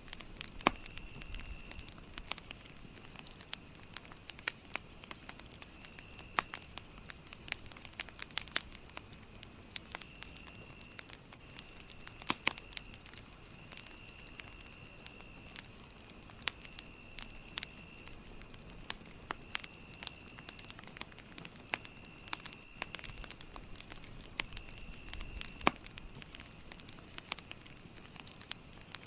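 Campfire crackling: wood popping in sharp, irregular snaps, several of them louder than the rest. Behind it runs a steady high-pitched chirping, pulsing evenly, with a lower trill that comes and goes about every two seconds.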